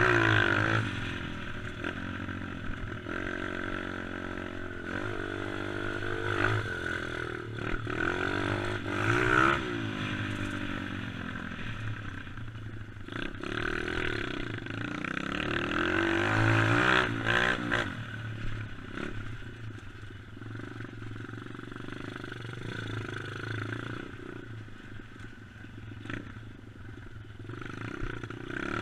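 Dirt bike engine being ridden hard, its pitch rising and falling over and over as the throttle is opened and closed, with rattling and clattering from the machine over rough ground.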